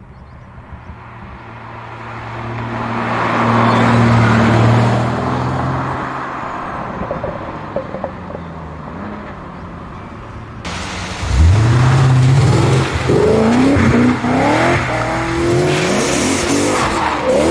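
Sports car engine running: its steady note swells and fades. After a cut, another engine revs up sharply, then runs through several quick rising sweeps in pitch as it accelerates hard.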